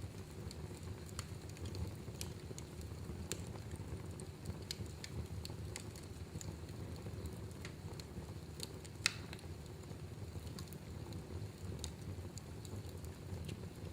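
Wood fire in a fireplace burning with a steady low rumble and scattered sharp crackles, with one louder pop about nine seconds in.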